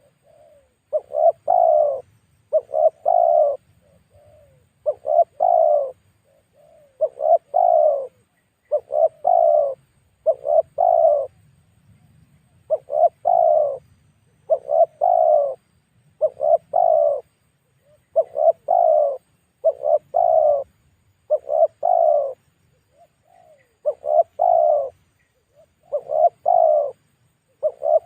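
Spotted dove cooing in its repeated lure call: phrases of two or three quick coos, one phrase about every two seconds.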